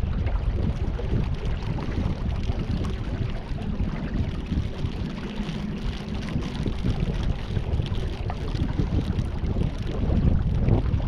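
Wind buffeting the microphone on a small boat on the river, a steady rumbling noise, with a faint steady hum in the middle.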